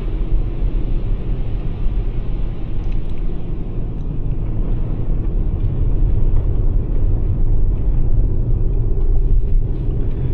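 Steady low rumble of a Toyota RAV4 Prime rolling on snow tires over a snow-covered highway, heard from inside the cabin, getting a little louder about halfway through.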